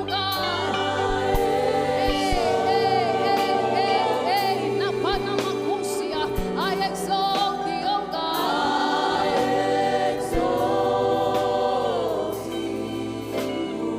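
Live gospel worship music: voices singing gliding, ornamented lines over sustained keyboard and bass chords, with occasional drum hits.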